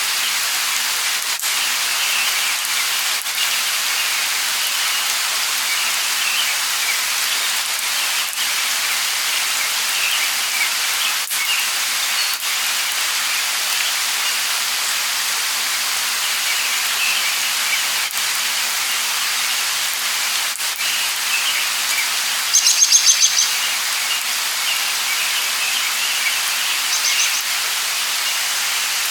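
Light rain falling with a steady hiss while small birds chirp throughout. About three quarters of the way through, one bird gives a loud, rapid run of high chirps, and a shorter one follows near the end.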